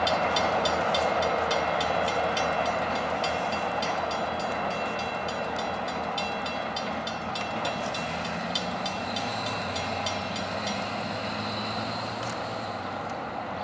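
MBTA commuter rail train rolling past, its wheels clicking rapidly and evenly over the rail joints over a steady rumble. The sound slowly fades as the train moves away.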